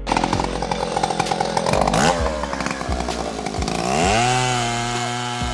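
Motorcycle engine revving: a quick rev rises and drops about two seconds in, then the pitch climbs about four seconds in and holds steady at a higher engine speed.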